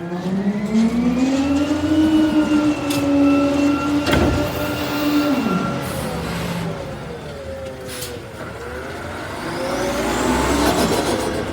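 Garbage truck's engine revving up over a couple of seconds, holding high, then dropping back about five and a half seconds in, with a couple of sharp bangs along the way.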